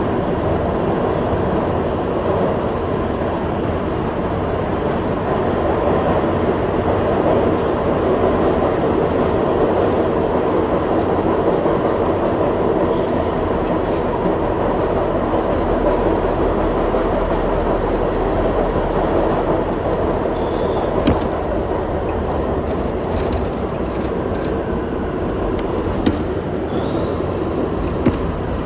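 Kawasaki R62 subway train running along the track, a steady loud rumble of wheels and running gear heard from aboard the car, with a few sharp clicks in the last third.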